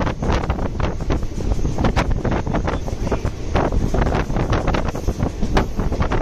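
Wind buffeting the microphone at the side of a fast-moving ICF passenger train coach, with the wheels rattling over the track in frequent sharp clacks.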